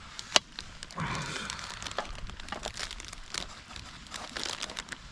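Crinkling and rustling of something being handled, with many scattered sharp clicks and one louder click about half a second in.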